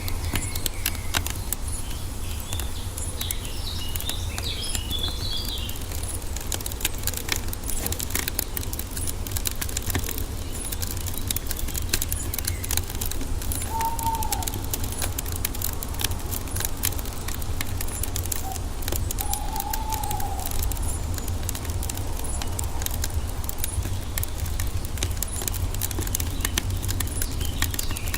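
Wood fire crackling with frequent sharp pops over a steady low rumble. Birds chirp a few seconds in and again near the end, with two short bird calls around the middle.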